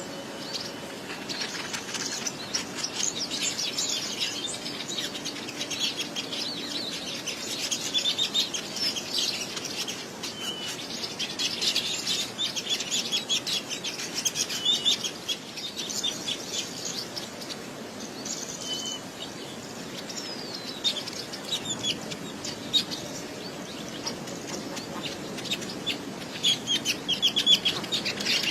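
A flock of small birds chattering with rapid, high chirps, many calls overlapping without a break.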